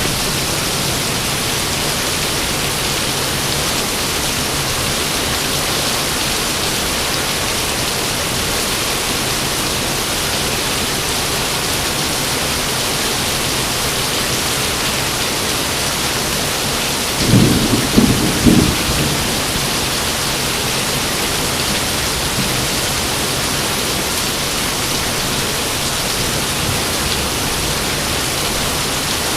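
Steady heavy rain, with a short clap of thunder of about three quick rumbles a little over halfway through.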